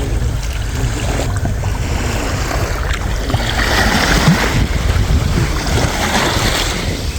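Sea waves washing along the shore, swelling into a louder rush of surf about halfway through, over a steady low rumble.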